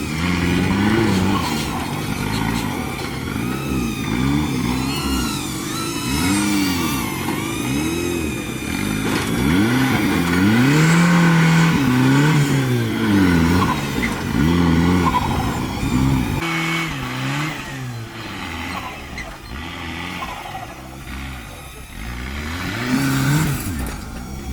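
Off-road competition vehicle's engine revving up and down again and again, its pitch rising and falling every second or two as the driver works the throttle.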